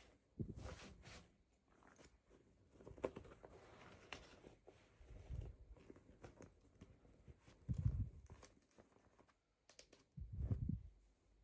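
Quiet handling noises of toy packaging being opened: scattered soft knocks, clicks and crinkles, with a few duller thuds.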